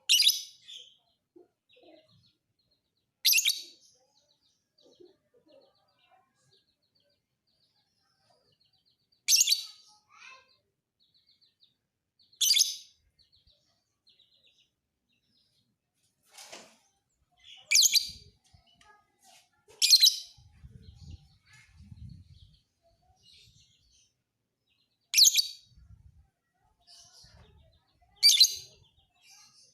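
Lovebird giving short, shrill calls, about eight spread irregularly through the half minute, with faint twittering between them.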